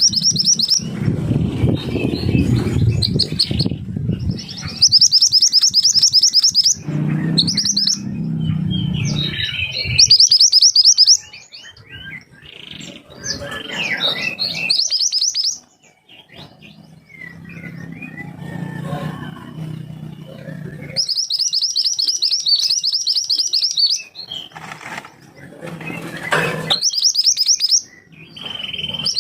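Mantenan gunung songbird singing sharp, rapid high-pitched trilled phrases in bursts of a few seconds, with pauses between. This is the kind of song used as a master recording to tutor other cage birds. A low rumble sits under some of the bursts.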